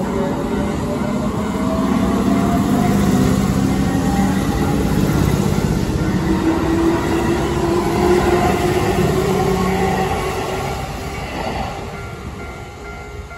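Keihan electric commuter train running close past and pulling away, with wheels rumbling on the rails and the traction motors giving a whine that rises slowly in pitch as it accelerates. The sound is loudest in the middle and fades over the last couple of seconds as the last cars move off.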